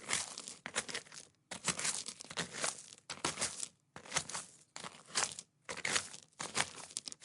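Footsteps on a forest path, each step a short scuffing crunch, about two a second, in runs broken by brief pauses.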